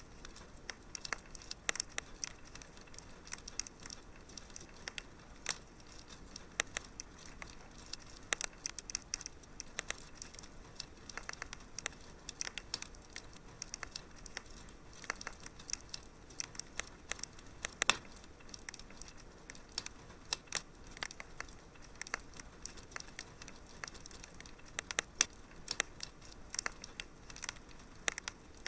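Wood fire crackling: irregular sharp pops and snaps over a soft hiss, with one louder pop about 18 seconds in.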